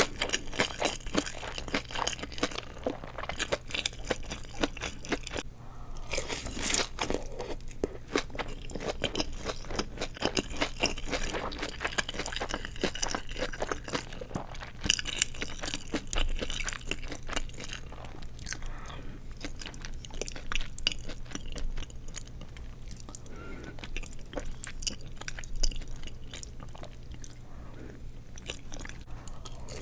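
Close-miked chewing of deep-fried seaweed rolls, crisp crunching as the fried nori and glass-noodle filling break up between the teeth. It comes as a dense run of crackly ticks with a few brief lulls, over a steady low hum.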